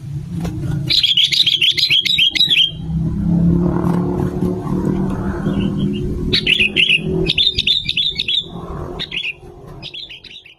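Sooty-headed bulbul (kutilang) singing in several short phrases of quick chattering notes, over a steady low rumble.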